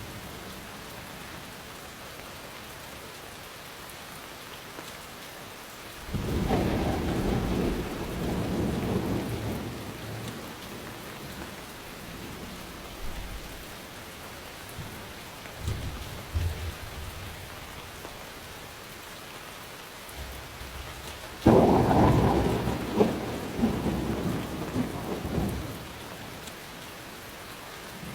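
Steady rainfall with thunder: a rumbling roll of thunder breaks in about a fifth of the way through and lasts a few seconds. Fainter low rumbles follow, then a louder, sharper crack with crackling rumble about three quarters of the way through.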